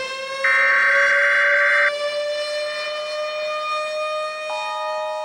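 Outdoor tornado warning siren sounding, one long tone whose pitch slowly rises, its upper notes swelling and fading every second or two.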